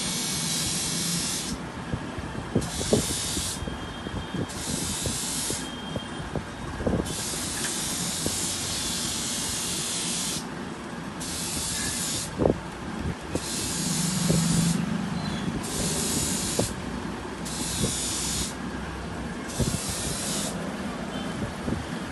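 Wire-feed welder arc crackling and hissing in short bursts, started and stopped about ten times with brief pauses between, one run lasting about three seconds, as when stitch-welding or tacking.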